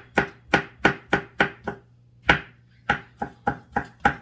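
Kitchen knife chopping garlic on a cutting board: quick, even knocks about three to four a second, with a short pause about two seconds in before the chopping resumes.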